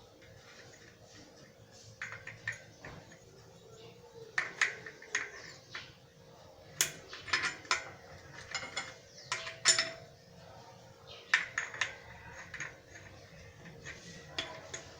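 Irregular metallic clinks and taps of wrenches and hub parts: a bicycle front hub's cone and lock nuts being fitted and tightened on the axle.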